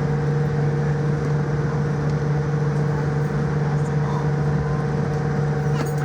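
Steady cabin drone inside a Boeing 787-9 airliner on the ground after landing: engines at idle and the air-conditioning rush, with a constant low hum throughout. A couple of faint clicks near the end.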